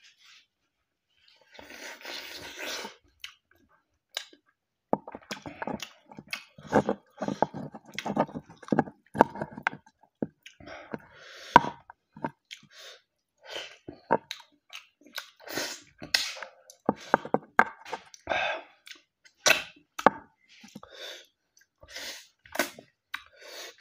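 Close-miked chewing and lip smacking of buffalo meat curry and rice eaten by hand: irregular wet clicks and smacks, with a short noisy stretch about two seconds in.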